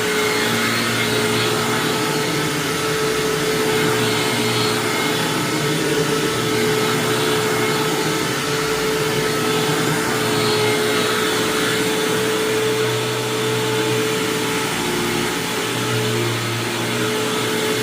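1999 Hoover WindTunnel Self-Propelled upright vacuum cleaner (model U6425-900) running: a steady motor drone with a strong, constant hum, swelling slightly every few seconds.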